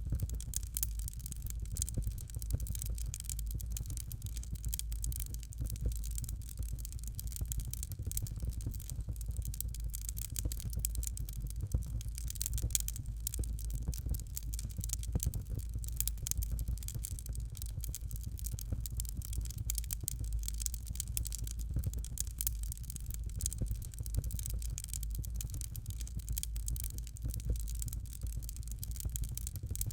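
Fireplace fire crackling steadily: dense small crackles and pops over a low, even rumble.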